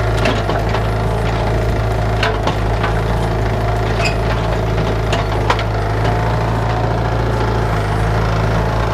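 Bobcat 331 mini excavator's diesel engine running steadily, with scattered sharp knocks and cracks as it digs out a bush.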